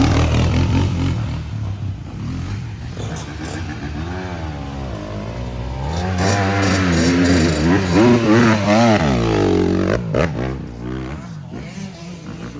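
Dirt bike engine revving, its pitch rising and falling over and over as the throttle is worked.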